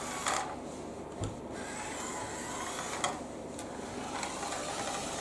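Small electric motor of a remote-control toy car whirring as the car drives, with a few light knocks along the way.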